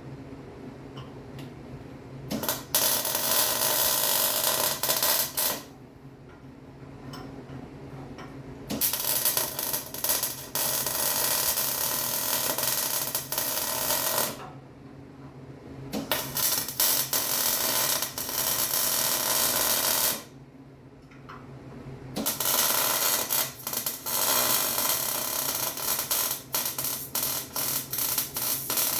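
Electric welding arc crackling in four runs of a few seconds each, with a steady low hum in the pauses between: welds being laid to fix a steel frame cross member onto a 1946 Willys Jeep frame.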